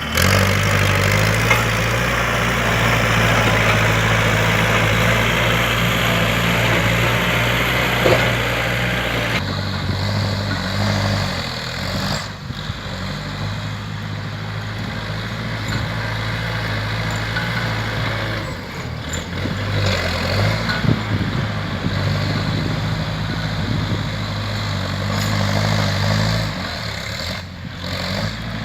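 Kubota L4708 tractor's diesel engine working as it grades and pushes soil. The engine note steps up and down with the changing load. It is louder and noisier for the first nine seconds or so, then eases, with short dips later on.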